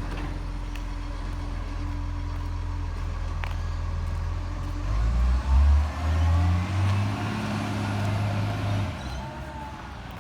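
Garbage truck engine idling steadily, then revving up about five seconds in, holding high for several seconds and easing back down near the end.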